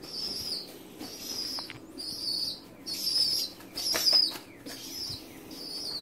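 A bird giving a steady series of short, high-pitched chirps, about one a second, with a few brief soft knocks in between.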